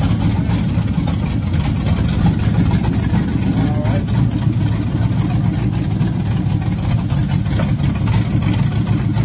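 LS1 V8 engine swapped into a 1995 Chevrolet Impala, running steadily at a low, even speed on its first start after the swap.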